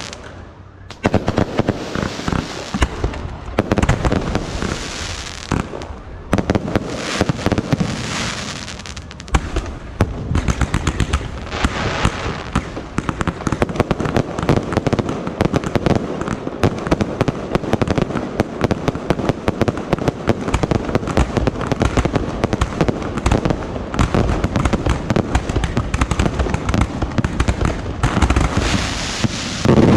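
Fireworks fired in rapid, dense volleys from an electronically triggered launch cart: a near-continuous run of bangs and crackles, with a brief lull about a second in.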